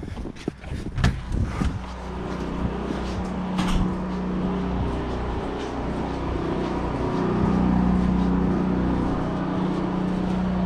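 A few knocks, then from about two seconds in the steady electric hum of the boiler's circulator pumps, running on generator power backfed into the house panel.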